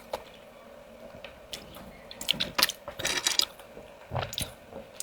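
Eating spicy river snails close to the microphone: short sucking slurps as the meat is drawn from the shells, with chewing and small clicks of shell, busiest around the middle.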